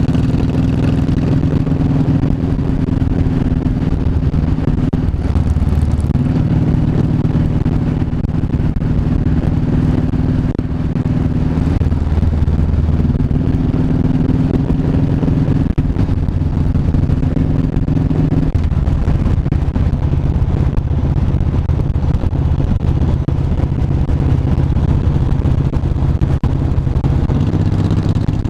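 Motorcycle engine running steadily under way, its note stepping down and back up several times as the revs change.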